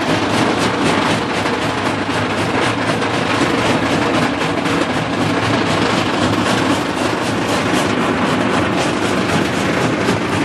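Track-mounted mobile jaw crusher running, with a loud, steady mass of machine noise and a dense, rapid clatter of many small impacts.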